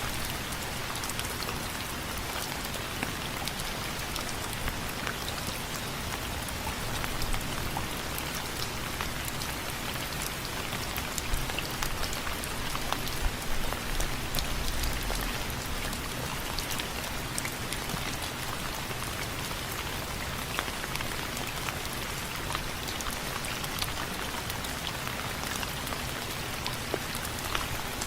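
Steady rain falling on window frames, a continuous hiss with many individual drops ticking sharply on the frame.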